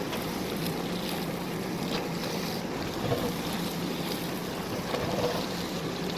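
JCB backhoe loader's diesel engine running steadily under work, with a couple of short knocks about three and five seconds in.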